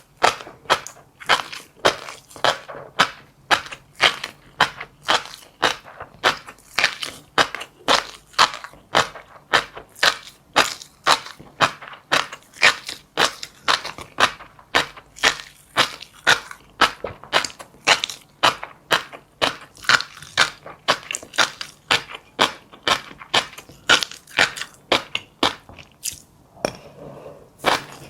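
Close-miked chewing of crunchy seeds: crisp crunches about two a second, with a short lull near the end.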